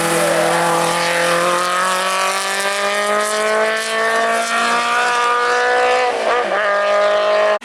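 Hillclimb race car's engine under hard acceleration, its pitch climbing steadily for about six seconds. Near the end it dips briefly, as at a gear change, and starts climbing again.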